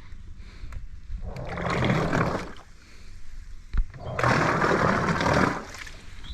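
Water rushing and splashing against a small boat's hull in two surges, each about a second and a half long, with a single sharp knock between them.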